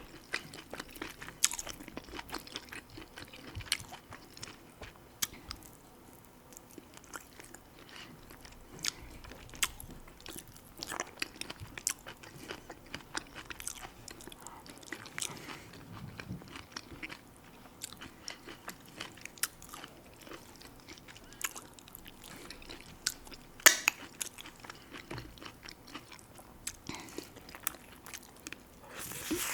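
Close-miked eating: chewing and biting with many irregular sharp crunches and clicks, a few louder crunches a few seconds before the end.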